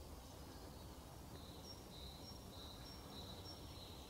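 Quiet outdoor ambience with a faint low rumble; from about a second in, a small bird sings a repeated two-note phrase, a higher and a lower thin note alternating about five times.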